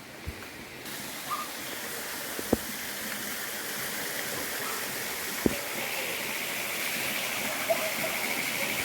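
Rushing water of a waterfall, a steady hiss that swells in about a second in and keeps growing louder, with two short sharp taps partway through.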